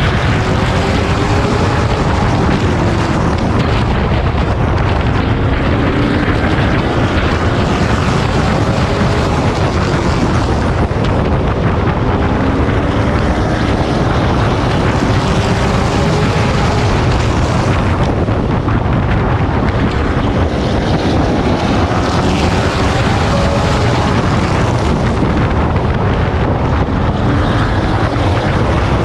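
Race truck's engine running hard, heard from on board, its pitch rising and falling again and again as it laps, under loud wind noise on the microphone.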